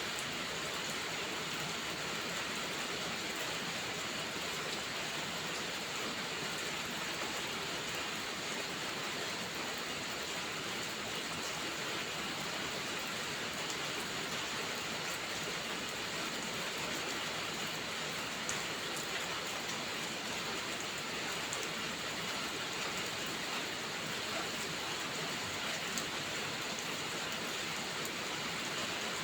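Steady rainfall: an even hiss of rain with a few faint ticks of individual drops.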